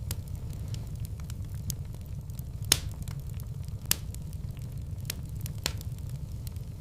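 Wood fire burning in a fireplace: a steady low rumble of flames with scattered crackles, and two louder pops a little before the middle.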